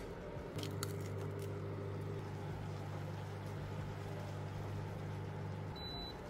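A kitchen appliance runs with a steady low electric hum for about five seconds after a few clicks, then stops abruptly and gives one short high beep, as when an appliance finishes its cycle.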